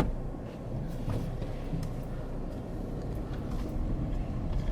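Steady low rumble of a car's road and engine noise, heard from inside the cabin while driving, with a few faint ticks about a second in.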